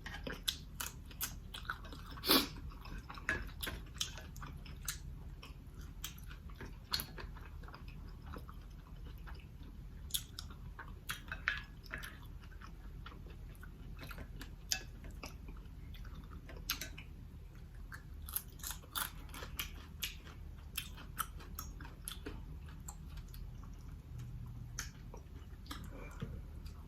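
A person chewing food close to the microphone, with frequent wet mouth smacks and clicks; one smack about two seconds in is louder than the rest.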